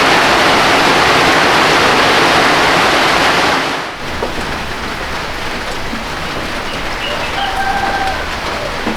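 Heavy rain drumming on a corrugated tin roof, a loud steady hiss. It cuts off abruptly about four seconds in to softer, steady rainfall, with a brief faint call near the end.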